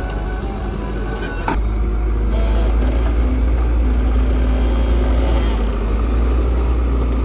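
A vehicle engine running steadily, growing louder about one and a half seconds in, with a deep rumble and a faint steady hum.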